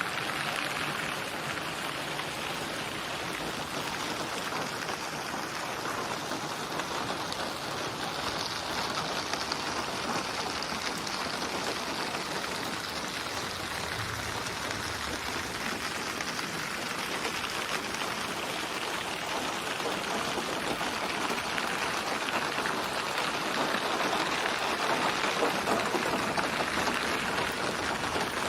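Steady rain with the dense patter of many drops landing on a surface.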